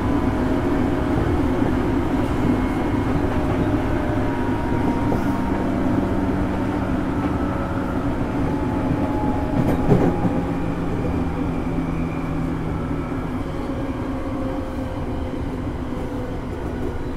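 JR East 205 series 0 electric commuter train running on the rails, heard from inside the passenger car: steady running noise with faint motor tones, slowly getting quieter. There is a single knock about ten seconds in.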